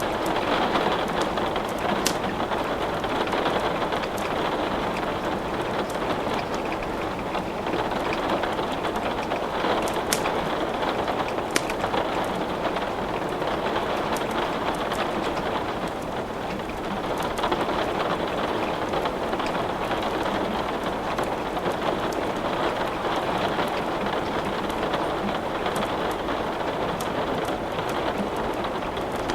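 Steady rain with the scattered sharp crackles and pops of wood burning in a fireplace.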